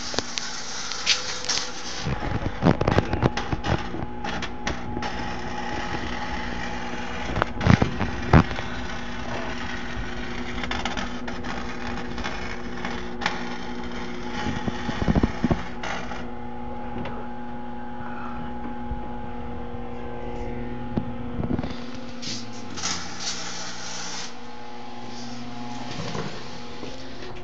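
Engine idling steadily through a loud exhaust whose muffler still needs welding, with scattered sharp knocks and rattles, the strongest about eight seconds in.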